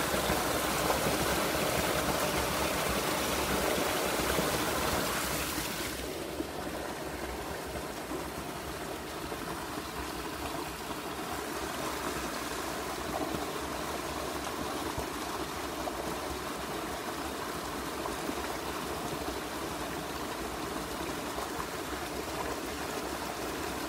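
A river's water rushing steadily; about five seconds in it becomes quieter and duller.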